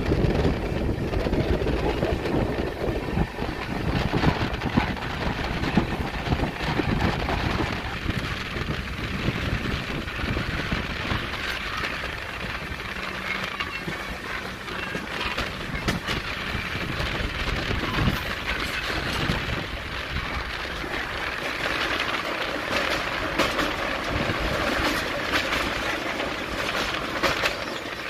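Coaches of the Poorva Express running at speed, heard from an open door: a steady rumble of wheels on the rails mixed with wind rush. The low rumble is heavier for the first several seconds, then eases to a lighter hiss.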